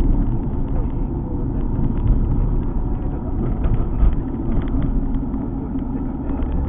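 Alfa Romeo 147 GTA's 3.2-litre V6 pulling the car along with road noise: a steady low rumble.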